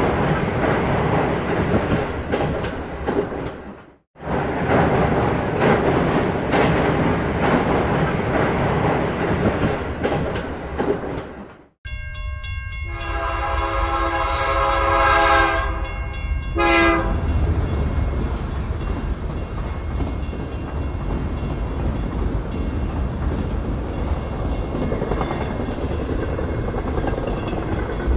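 Freight train running on the track with a steady rumble and wheel clatter. About twelve seconds in, a train horn sounds one long blast and then a short one, followed by a deeper, steadier rumble of passing wagons. The sound drops out abruptly twice, about four seconds in and again just before the horn.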